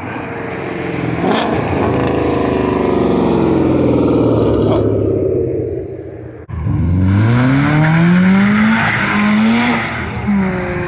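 A car engine revving hard at high rpm, its pitch sinking slowly for several seconds. About six and a half seconds in it breaks off, then climbs steeply as the car accelerates, and eases back near the end.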